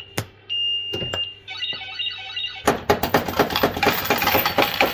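Bell-Fruit FireCracker fruit machine sounding its win: a steady high beep tone, then a warbling alarm-like jingle, then from about halfway a rapid clatter of coins paying out into the tray.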